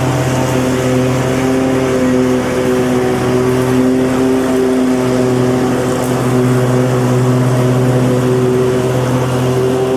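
Lawn mower engine running steadily at a constant speed: an even engine hum with a rough noisy hiss over it.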